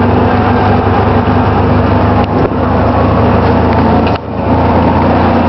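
Small gasoline engine of an Autopia ride car running steadily under way, heard from on board, with a short dip in loudness about four seconds in.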